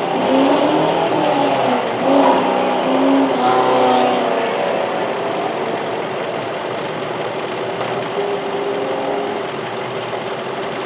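Infiniti M45's 4.5-litre V8 idling, the pitch wavering for the first few seconds and then holding steady. Its number 4 ignition coil is getting no trigger signal, so that cylinder is not firing: a dead-cylinder misfire.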